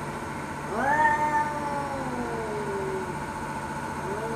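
Domestic cat giving a long, drawn-out yowl about a second in, rising sharply and then falling slowly in pitch over about two seconds, with a second yowl starting near the end. This is the warning yowl of a cat in a fight or standoff with another cat.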